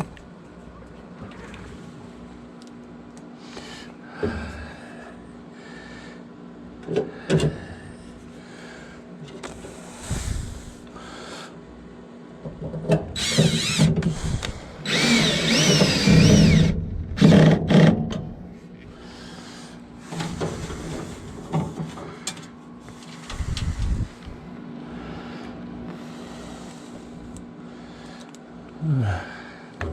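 Power drill/driver running in short bursts, driving screws, with the longest, loudest run about halfway through, a whine that climbs and falls in pitch. Scattered knocks of metal parts being handled, over a steady low hum.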